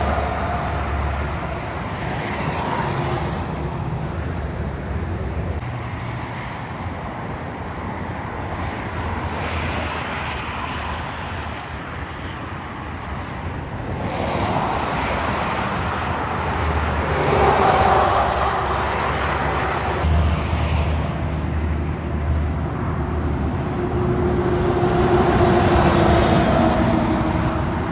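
Continuous road traffic with heavy trucks going past, a low engine rumble under tyre noise. It swells louder twice, about halfway through and again near the end, as vehicles pass.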